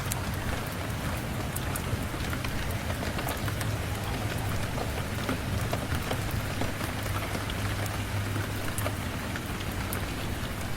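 Steady rain falling on a surface, with scattered sharp ticks and a steady low rumble underneath.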